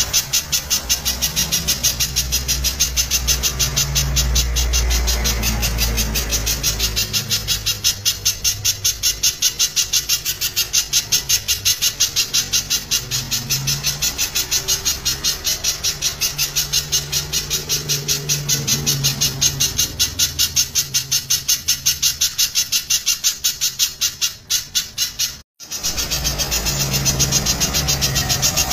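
Spiderhunter (pijantung) calling loudly in a rapid, unbroken train of sharp high notes, about five a second, with a short dropout about 25 seconds in. A low rumble runs underneath.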